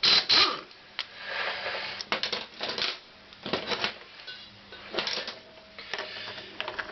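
Hand work on the Honda CX500 starter clutch: irregular metallic clicks, taps and short scraping rattles of tools and metal parts being handled during disassembly.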